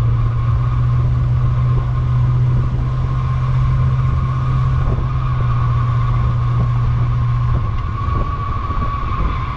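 Engine of a 1968 Buick Skylark convertible running as the car drives along, a steady drone that eases off about eight seconds in.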